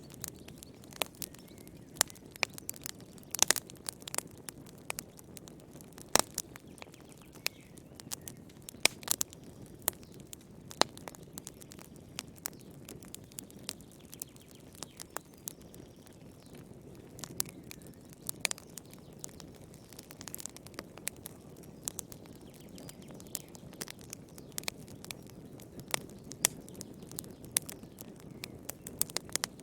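Wood fire burning in a fireplace: a steady low rushing of the flames under frequent, irregular sharp crackles and pops of burning firewood.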